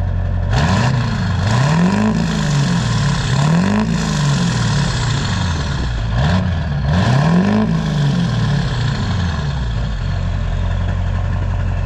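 A 2002 GMC Sierra 2500HD's 6.6 L Duramax LB7 V8 turbodiesel heard through its 4-inch exhaust with no tip fitted. It idles, is revved about four times, each rev rising and falling, then settles back to a steady idle near the end.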